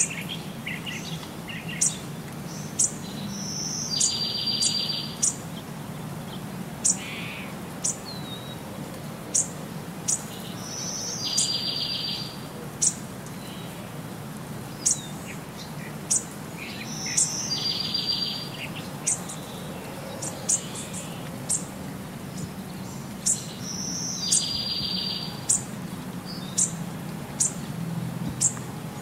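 Birdsong: sharp high chirps about once a second, and a short buzzy trill that comes back the same about every seven seconds, over a low steady hum.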